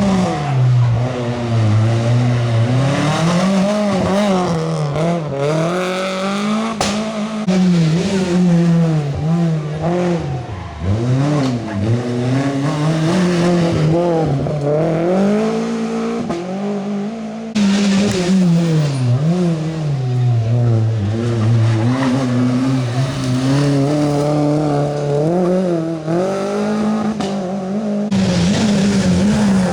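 Rally car engine revving hard and dropping back over and over through gear changes and lifts, the pitch sweeping up and falling repeatedly. The sound jumps abruptly about two-thirds of the way through and again near the end, as if to another car.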